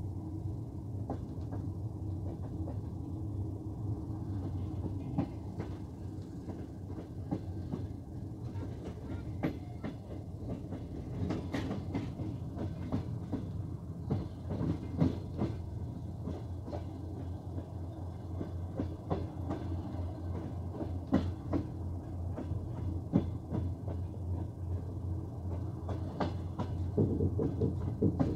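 Diesel-hauled passenger train rolling along the track, heard from a coach: wheels click and knock over rail joints at irregular intervals over a steady low rumble. The clicks come more often in the second half, and it grows a little louder near the end.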